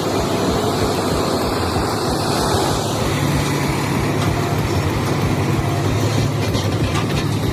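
A heavy vehicle's engine running steadily amid vehicle noise, its low engine note becoming more prominent about three seconds in.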